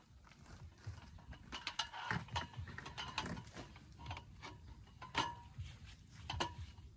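A series of irregular mechanical clicks and clunks, spaced unevenly.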